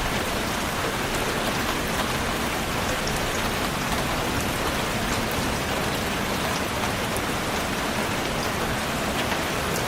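Steady rainfall hissing evenly, with faint scattered drop ticks.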